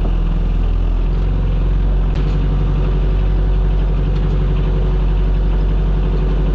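A small boat's engine running steadily at an even, low pitch.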